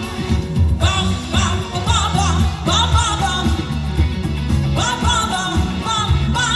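Live band playing an upbeat rock song with singing over it, the audience singing along.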